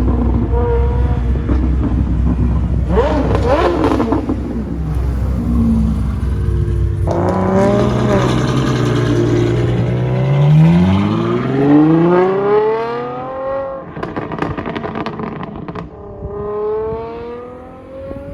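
Sports car engines accelerating away one after another, each exhaust note climbing steadily in pitch as the car pulls. A steady low rumble fills the first few seconds.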